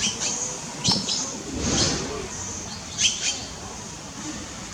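Small birds chirping: short, high, downward-sliding chirps, often in quick pairs, repeated every second or so.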